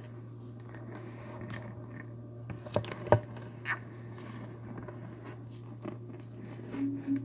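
A turtle eating: sharp clicks and snaps of its jaws biting food, loudest a few times around the middle, over a steady low hum. A short pitched sound comes near the end.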